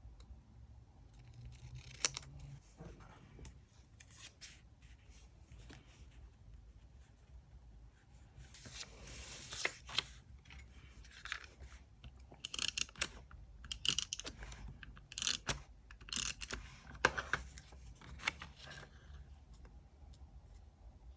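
Scissors cutting paper, with paper rustling and light taps of stationery. There is a longer rustle about nine seconds in, then clusters of crisp, short snips.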